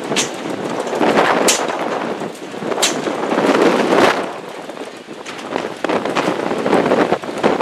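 Strong wind buffeting the camera microphone in loud gusts that swell and ease, with sharp crackling pops from the mic overloading.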